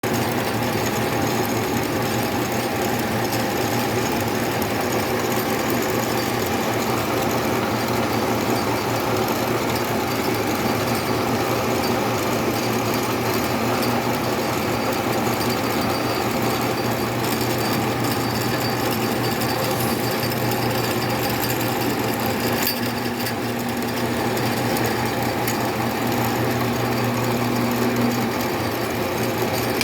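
Machine-shop tapping machinery running through a thread-tapping process: steady mechanical noise over a low hum, with one sharp click about three-quarters of the way through.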